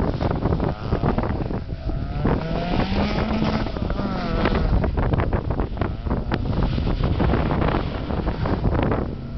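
Honda Civic's engine revving up and down as the car is driven hard round a timed course, the note rising and falling most plainly a couple of seconds in. Heavy wind buffets the microphone throughout.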